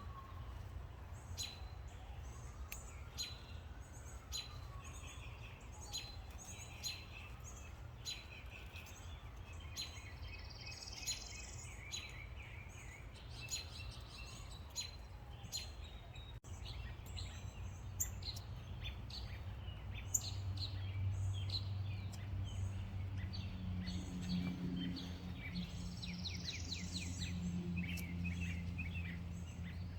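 Wild birds calling and chirping outdoors, with repeated short notes and quick rising whistles, over a low steady hum that grows louder about twenty seconds in.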